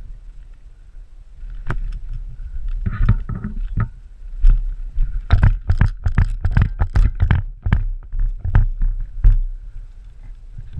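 A rapid, irregular run of sharp knocks and thumps, several a second, over a low rumble; it starts about four seconds in and stops near the end.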